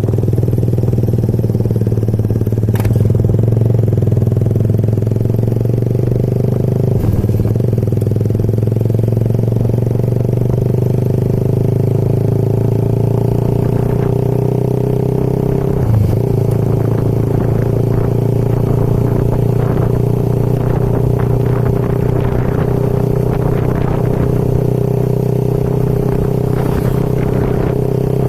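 Motorcycle engine running steadily while riding, at an even speed throughout.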